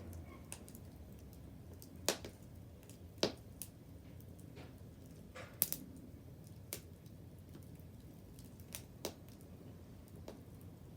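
Wood bonfire crackling: a few sharp pops at irregular intervals over a low steady background.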